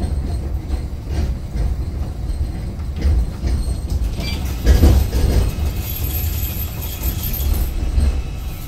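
Iyotetsu suburban electric train running slowly through the station points, heard from on board: a steady low rumble of the wheels with clacks over the rail joints and switches, the loudest about five seconds in.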